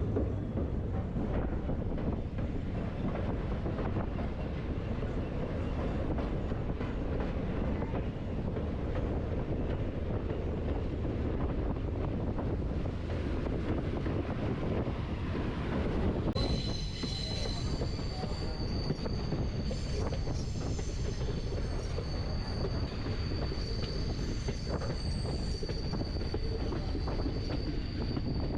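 Train running on the rails with a steady rumble of wheels. About sixteen seconds in, a high steady wheel squeal starts and keeps on.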